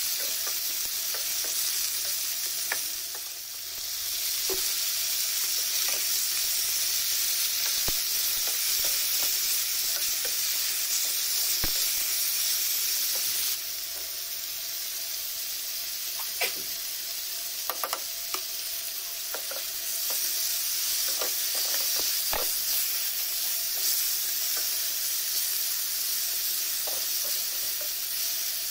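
Chicken, onion and tomato pieces sizzling as they are stir-fried in a non-stick frying pan, with the spatula scraping and clicking against the pan now and then. The sizzle drops a little about halfway through.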